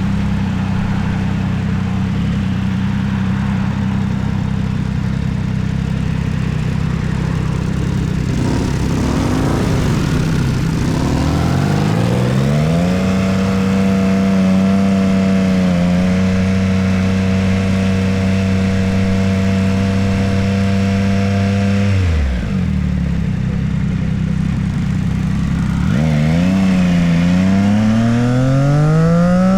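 Motorcycle engine under way: it runs steadily at first, then revs up about twelve seconds in and holds a steady cruise. It drops off sharply a few seconds later and accelerates again through quick up-and-down pitch steps near the end, like gear shifts.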